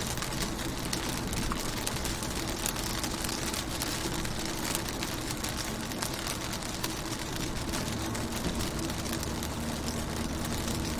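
Rain pattering steadily on a car's window glass, a dense run of small drop ticks over a steady low hum.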